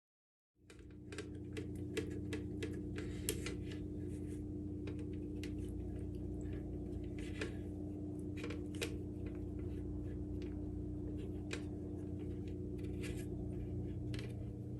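Steady hum of a small electric pump with a low rumble, typical of a cat water fountain running, starting just under a second in. Many light clicks and small water sounds are scattered over it.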